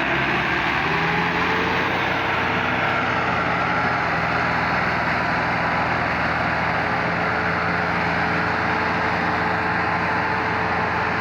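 Tractor engine running steadily at high revs under working load, its drone holding an even pitch.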